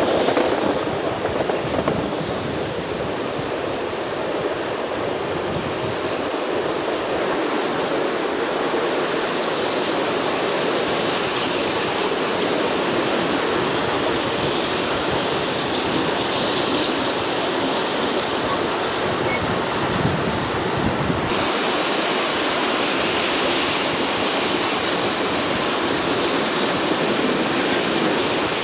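Steady rushing noise of a moving steam-hauled passenger train heard from an open carriage window: wind across the microphone mixed with the running noise of the carriages on the rails.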